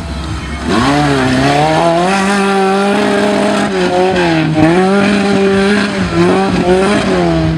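Offroad 4x4 competition vehicle's engine revving hard. The pitch climbs about a second in, holds high, and dips briefly a few times as the throttle is lifted and reapplied.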